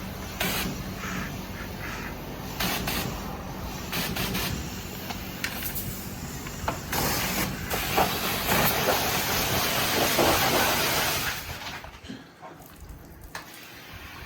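High-pressure water spraying from a self-serve car wash wand, a steady hiss that gets louder about seven seconds in and cuts off sharply near the end.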